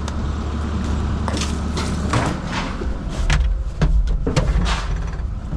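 Caterpillar 306 mini excavator's diesel engine running steadily. From about a second in, a string of sharp cracks and knocks comes from shed debris being broken up.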